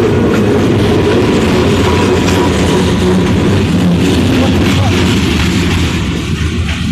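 WNYP freight train rolling past close by: a steady, loud rumble of wheels on rail, thinning out near the end.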